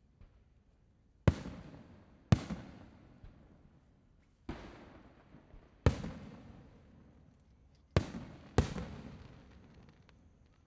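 Display fireworks shells bursting overhead: six sharp booms over about seven seconds, each trailing off in a long fading rumble.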